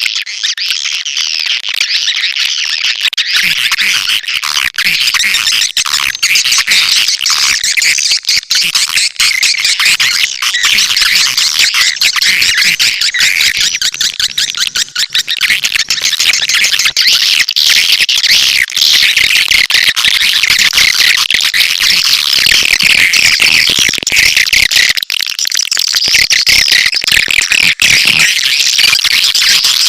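Swiftlet lure call recording: a loud, continuous chorus of dense, high chirping and twittering swiftlet calls, the kind played at swiftlet nesting houses to draw the birds in.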